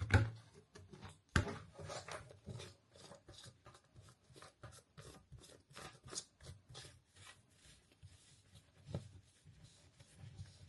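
Hands working the washing machine's plastic hose and pipe fittings into place: a quick, uneven series of small clicks and rubs, about three or four a second, with a sharper knock about a second and a half in.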